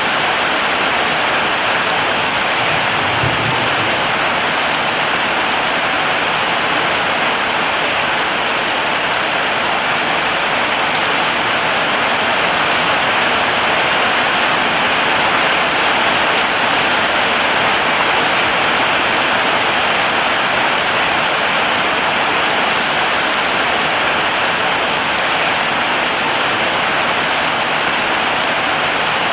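Heavy rain falling steadily, an even hiss of rain on surfaces, with a brief low thump about three seconds in.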